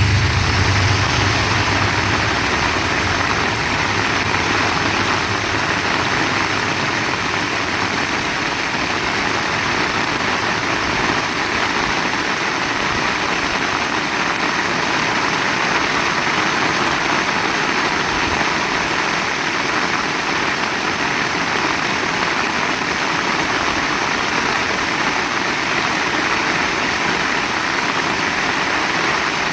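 Heavy rain falling steadily, a dense even hiss. A low hum fades out in the first couple of seconds.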